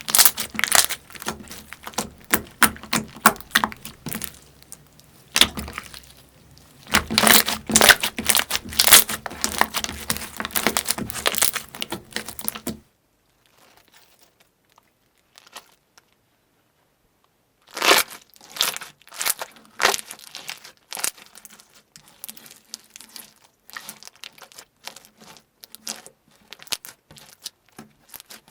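Slime being squeezed and pressed by hand, giving dense crackling and popping. About halfway it stops for a few seconds of near silence, then sparser, quieter crackles follow.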